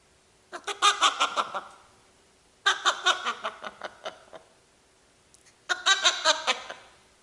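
African grey parrot mimicking laughter: three bouts of quick, pulsed ha-ha-ha snickering, each lasting about a second, separated by short pauses.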